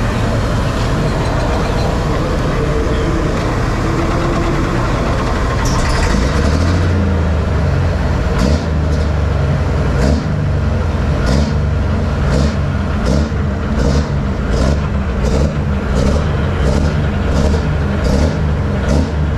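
Pulling tractor's engine running loud with a heavy low rumble that builds about six seconds in. From about eight seconds in there is a regular sharp ticking, a little more than once a second.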